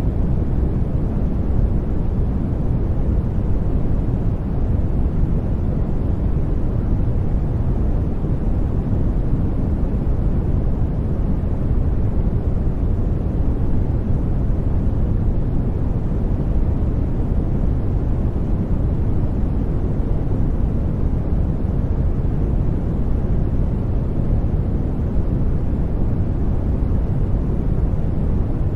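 Brown noise: a steady, deep rushing hiss with its weight in the low end and little treble, unchanging throughout.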